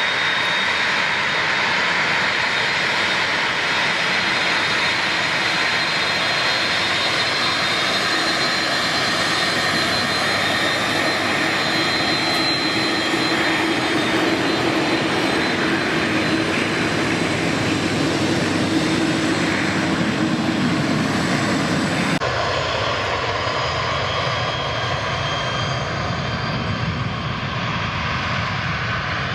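Airbus A330 twin jet engines roaring steadily at takeoff power, with a whining tone over the roar. Near the end the sound changes abruptly and the high hiss drops away.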